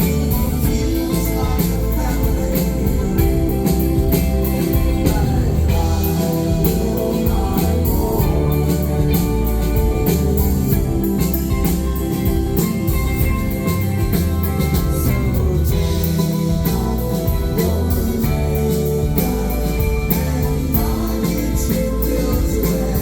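Live rock band playing through a concert PA: full band with drums and cymbals keeping a steady beat, loud and continuous.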